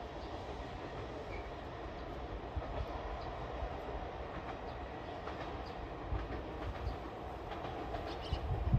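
A train running along the track, with wheels clacking over rail joints and a few heavier thumps near the end.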